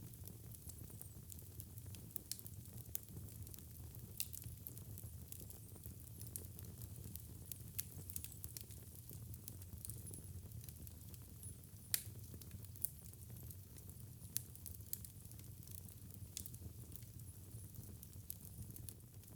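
Wood fire burning in a fireplace: a steady low rumble with frequent sharp crackles and pops, the loudest pop about twelve seconds in.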